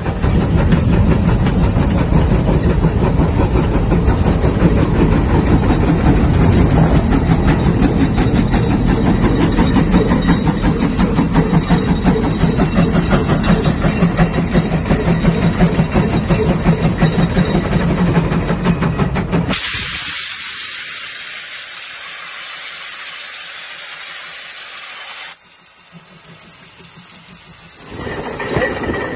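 Steam tractor engine running with a rapid rhythmic beat, then about two-thirds of the way through the beat stops abruptly and only a steady hiss of steam remains.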